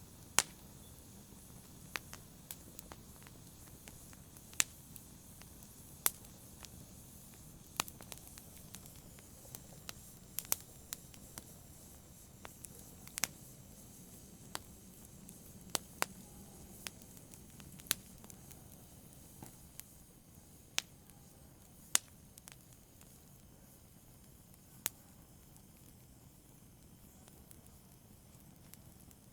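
Fire in a brazier crackling softly: irregular sharp pops and snaps, about one or two a second with a few louder ones, over a faint steady hiss.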